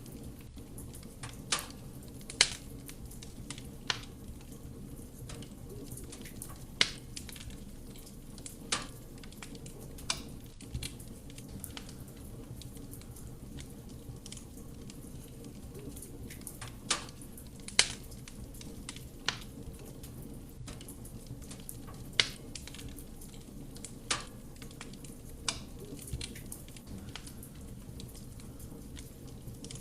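Wood fire burning in a fireplace: a steady low rush of flame with about a dozen sharp crackles and pops from the burning wood at irregular intervals.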